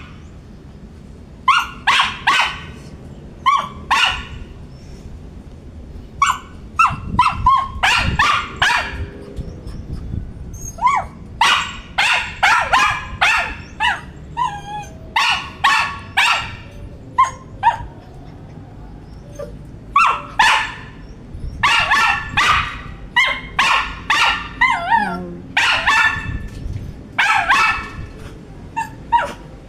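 Poodle barking repeatedly in quick runs of several sharp barks, with brief whines in between, twice.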